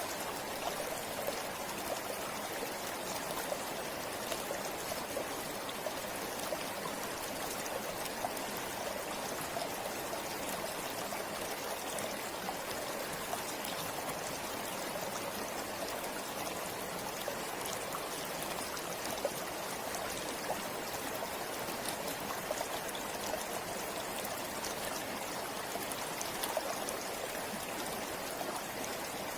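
Forest river or stream flowing steadily over rocks, a constant rushing babble with small splashes and trickles.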